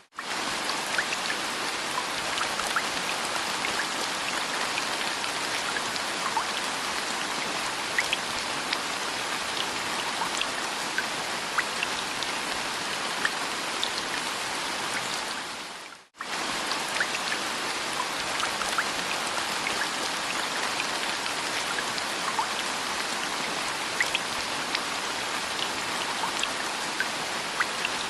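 Steady rain falling, with scattered single drops ticking on a surface. It cuts out for a split second about sixteen seconds in and then carries on.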